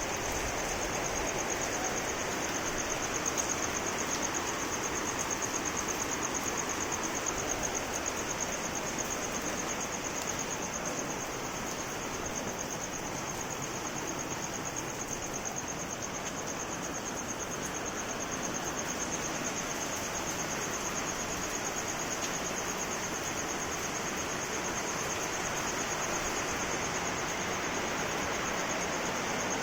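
Steady rain falling, with a continuous high-pitched insect trill over it.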